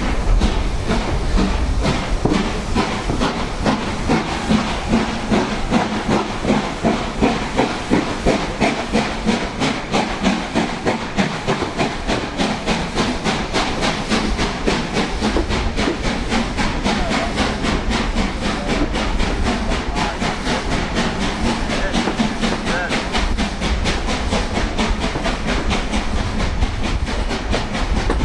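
LMS Black Five 4-6-0 steam locomotive working hard, its two-cylinder exhaust beats chuffing in a regular rhythm that quickens partway through, over a steady hiss of steam.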